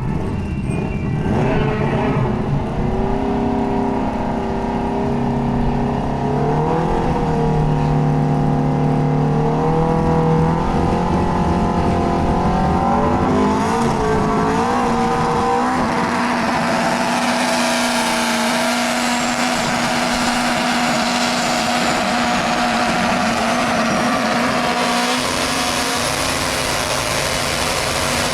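Drag race car engines revving, their pitch stepping up and down and then held steady, with a loud rushing noise joining about halfway through.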